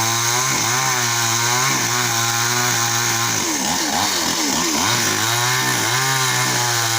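Chainsaw running while cutting tree branches, its engine note dipping and picking back up several times, most deeply from about three and a half to five seconds in.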